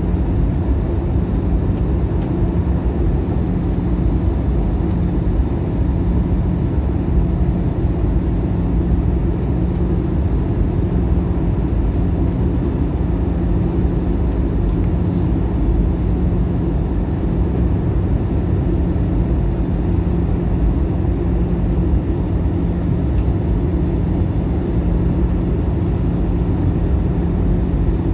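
Steady cabin noise of an Airbus A320-214 in descent, heard from a forward seat: a constant low roar of its CFM56 engines and rushing air, with a steady hum running through it.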